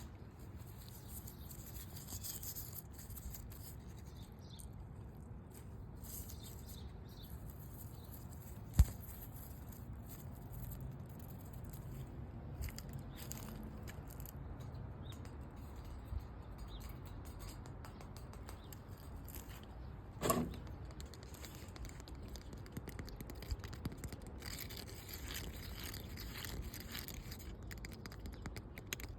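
Soft, steady scratching and rubbing on an object's surface. There is one sharp tap about 9 seconds in and a louder knock about 20 seconds in.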